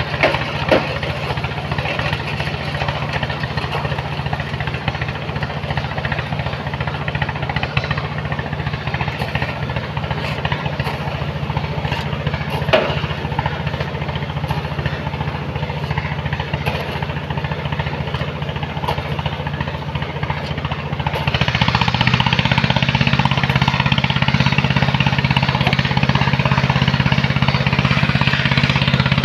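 Large engine of a sand-loading machine running steadily with a rapid knocking pulse. About two-thirds of the way through it gets clearly louder and fuller, as if throttled up or put under load.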